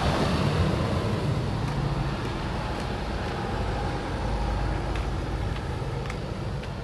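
A single-decker bus's diesel engine running as it passes close by, the sound slowly fading as it moves away.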